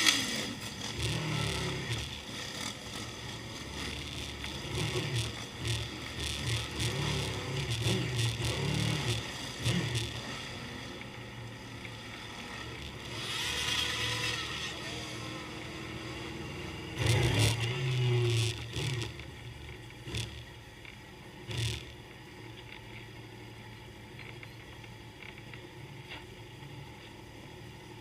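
Motorcycle engines running and revving unevenly, with a louder burst about seventeen seconds in; the sound settles to a quieter steady noise over the last several seconds.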